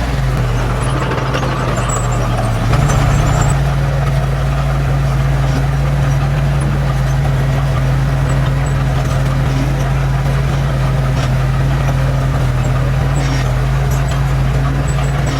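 Heavy diesel engine of earthmoving machinery running steadily. Its pitch and loudness step up slightly about three seconds in, then hold.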